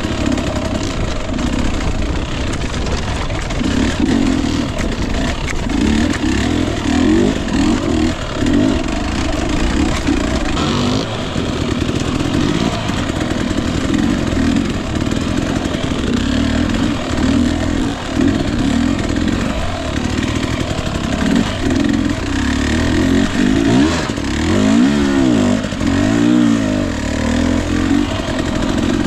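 Husqvarna TE 250i single-cylinder two-stroke dirt bike engine running under constant throttle changes, its pitch rising and falling with each blip, with a few quick rev blips a little before the end.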